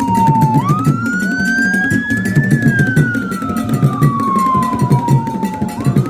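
A siren wailing in long slow sweeps: the pitch sinks, leaps back up twice, about half a second in and again near the end, and rises and falls between. Under it runs a steady drumbeat.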